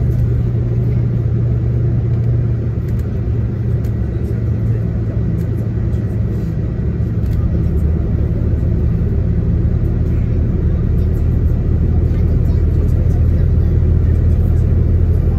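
Coach bus running, heard from inside the passenger cabin: a steady low engine drone with road rumble. The engine's pitch steps down about halfway through.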